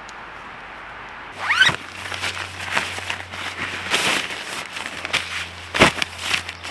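Irregular rustling and scraping from gear being handled, starting about a second and a half in with a short upward-sliding sound, then a string of uneven rustles.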